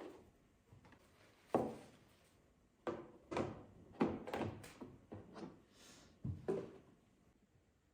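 A run of about eight short knocks and clatters, several close together in the middle, with quiet between them.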